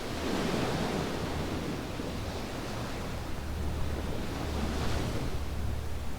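Ocean waves breaking and washing up a beach: one surge right at the start and a second about four and a half seconds in, over a steady low rumble.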